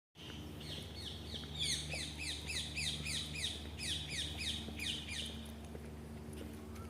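A bird singing a rapid, even series of repeated down-slurred chirps that stops about five seconds in, over a faint steady low hum.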